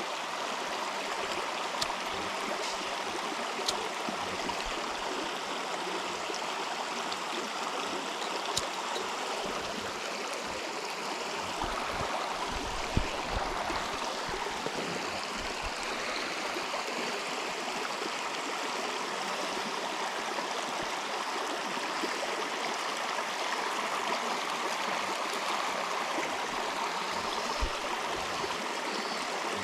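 A river flowing steadily, with a few light clicks over it.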